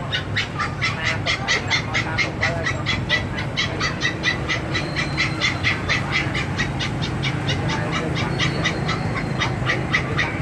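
A small bird calling in a rapid, even series of short, sharp notes, about five a second, held steadily with no pause.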